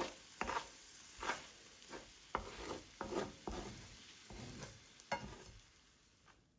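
Kitchen utensil work: irregular scraping and knocking strokes, about two a second, as in stirring or mixing.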